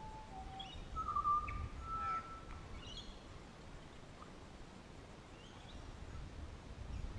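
Wild birds calling: several clear whistled notes and a few short, higher chirps in the first three seconds, fainter after that, over a steady low rumble.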